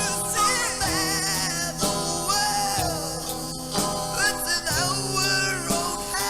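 Hard rock song playing, a full band with a lead line that bends and wavers in pitch above it.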